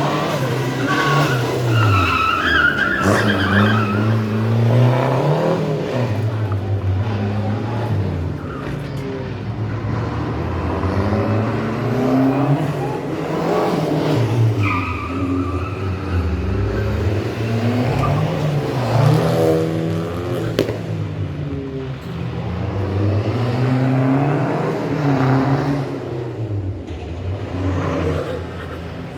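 Rally car engine revving up and dropping back over and over as the car slides sideways, with tyre squeal, loudest about a second in and again about halfway through.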